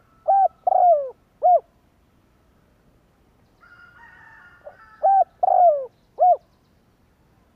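Spotted dove cooing: two three-note phrases a few seconds apart, each a short coo, a longer falling coo and a short coo. Before each phrase, and overlapping its start, there is a fainter, higher-pitched sound.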